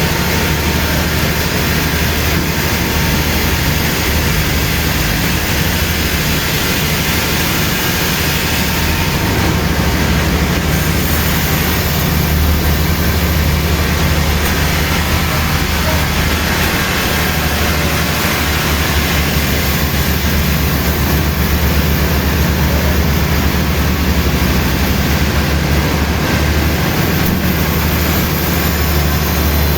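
Sawmill machinery running steadily: a loud, even mechanical noise with a constant low hum.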